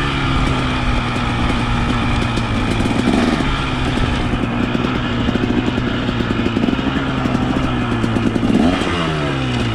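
KTM two-stroke dirt bike engine running under throttle as it is ridden, its pitch rising and dropping with the revs, with a quick shift in pitch near the end.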